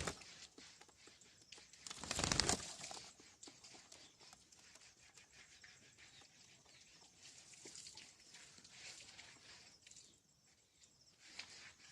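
Green parrot giving one short, harsh squawk about two seconds in, followed by faint scratchy rustling.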